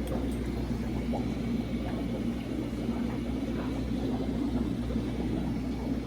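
Steady low mechanical hum and rumble of room ambience, with no distinct events.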